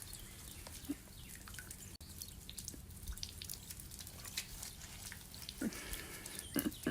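Rainwater dripping: scattered drops ticking irregularly, faint, over a light steady hiss of rain.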